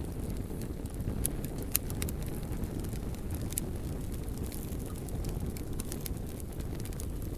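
Wood fire burning: a steady low rumble with scattered sharp crackles and pops, a few louder snaps about a second and a half in and again past three seconds.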